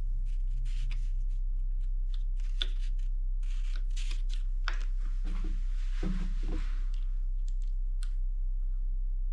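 Scattered light clicks, taps and rustling from hands handling small bicycle parts and tools, with a brief scraping patch around the middle, over a steady electrical hum.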